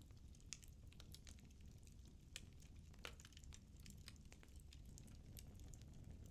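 Firewood burning in a fireplace, crackling faintly: irregular small pops and snaps over a low, steady rumble of the flames, with a couple of sharper pops near the middle.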